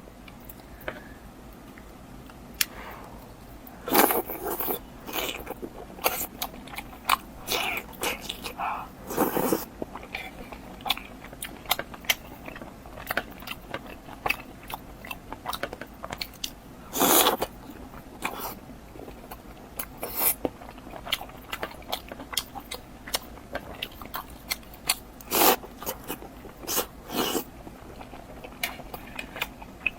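Close-miked eating sounds: a person biting and chewing food, with irregular crunches and wet mouth clicks, and a few louder bites.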